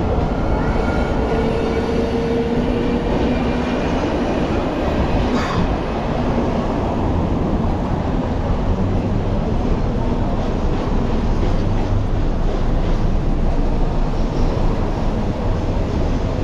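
Steady, loud rumbling of a moving train, with faint whining tones and a single click about five seconds in.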